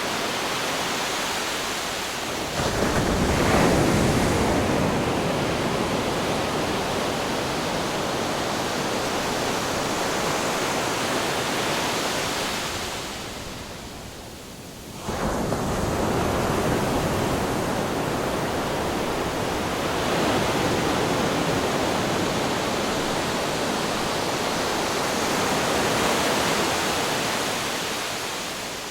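Ocean waves crashing against rocks: a continuous rush of surf that surges about two and a half seconds in, ebbs away around thirteen seconds in, then surges back with the next wave a couple of seconds later.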